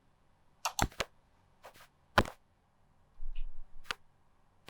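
A handful of short, sharp clicks and taps, about five spread unevenly over a few seconds, with a faint short high blip in between.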